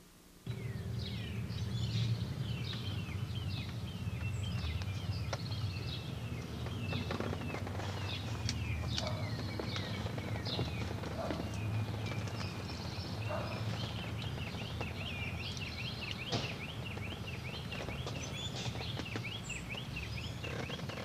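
Several birds chirping and singing over a steady low rumble. In the last third one bird repeats a quick chirp several times a second.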